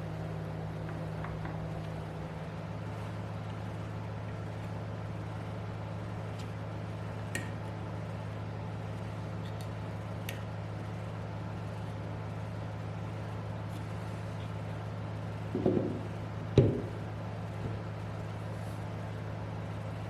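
Steady low machine hum, with a few faint clicks and two knocks about three quarters of the way through.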